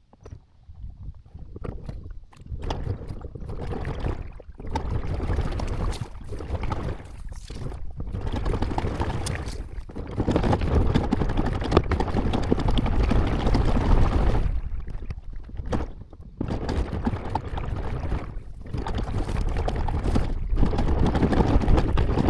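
A kayak under way on a river, with loud rushing water and wind noise on the microphone. The noise comes in uneven surges of a few seconds, with short dips between them.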